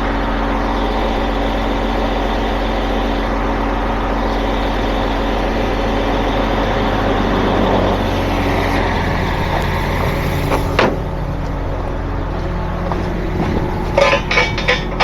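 Heavy truck engine idling steadily, its note changing about halfway through. A sharp click comes near the end of the idle, then a quick run of metal clanks right at the end.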